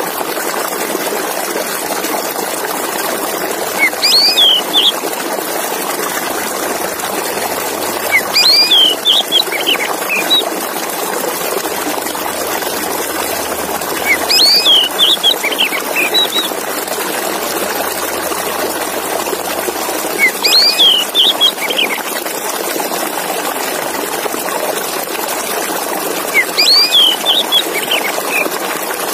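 Male oriental magpie-robin (kacer) singing short whistled phrases, five times at roughly six-second intervals, over a steady hiss.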